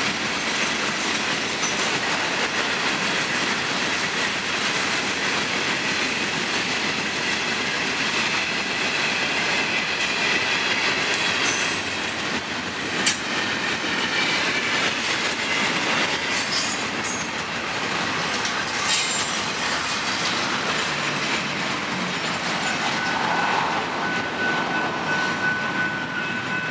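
A long freight train's cars rolling past at steady speed: continuous wheel-on-rail noise with faint wheel squeal and a few sharp clanks midway. A thin, high steady squeal comes in near the end.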